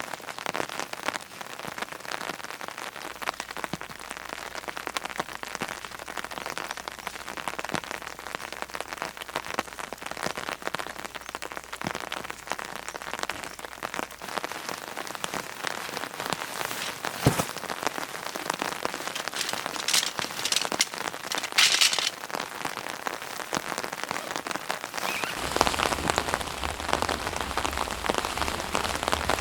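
Steady rain falling, a dense patter of drops, with a single sharp knock about two-thirds of the way through. The rain grows fuller and louder near the end.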